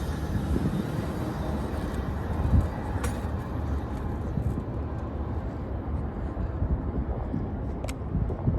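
Low rumble of a passing train fading away, mixed with wind buffeting the microphone; the higher-pitched part of the train sound dies off over the first few seconds.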